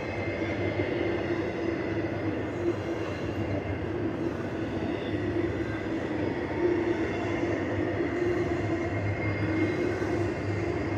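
Norfolk Southern intermodal stack train rolling past: a steady rumble of wheels on rail.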